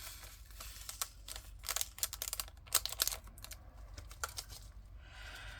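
Small hard plastic clicks and light rattling from handling diamond-painting drills and their small plastic storage containers, coming in irregular quick clusters.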